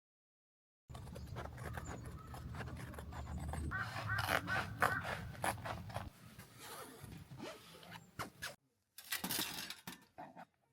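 Irregular scraping, rustling and clicking handling noises over a low hum. The hum stops about six seconds in, and the noises break off briefly near the end before a short final burst.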